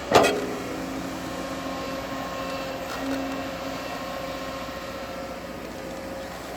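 Bulldozer diesel engine running steadily, with one loud metallic clank just after the start.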